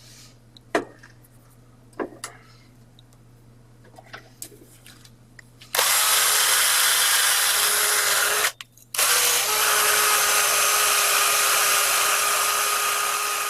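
A few light handling clicks, then about six seconds in a power drill spinning a steel wire brush starts up and runs with a steady whine. It stops for about half a second, starts again and runs on. The brush is scrubbing rust off a steel drill part.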